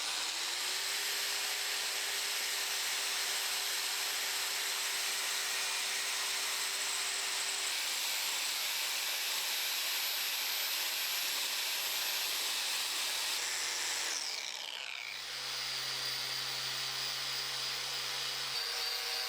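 Rotary power tool stripping paint off a steel anvil to expose any filler or spot welds. It spins up at the start, runs steadily, and winds down with a falling pitch about fourteen seconds in, then runs again steadily with a lower hum.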